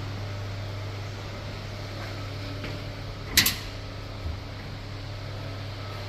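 Steady low machine hum with one sharp clack about halfway through and a smaller knock a second later: the door of an Electrolux TD6-24S commercial tumble dryer being handled as it is loaded.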